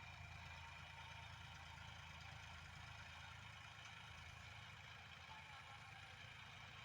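Tractor engine running steadily at an even, idle-like speed.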